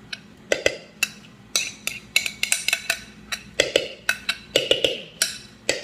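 Kitchen utensils clattering against a bowl: a series of sharp, irregular taps and knocks, some in quick pairs.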